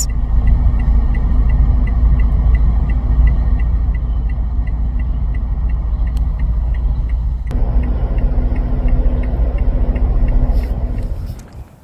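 Wind rumbling hard on the microphone outdoors, with a faint, quick, regular high ticking of about four a second. The sound shifts about seven and a half seconds in and fades near the end.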